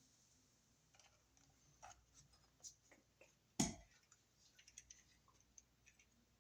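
Faint scattered clicks and light taps of wires and hand tools being handled, with one sharper tap about three and a half seconds in.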